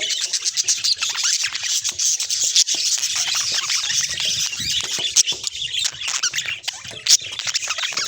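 Pet budgerigars chattering and warbling: a continuous dense stream of short high chirps, squeaks and clicks.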